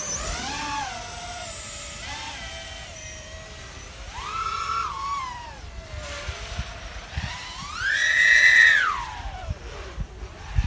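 Brushless motors of a Diatone ER349 3-inch FPV quadcopter whining as the throttle is raised and lowered. The pitch glides up and down several times, with the loudest, highest punch near the end.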